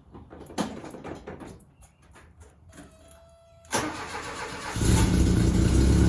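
A few faint clicks, then the 1979 Volkswagen Beetle's air-cooled flat-four is cranked by the starter for about a second and catches on a cold start, settling into a steady idle. It fires up without any throttle.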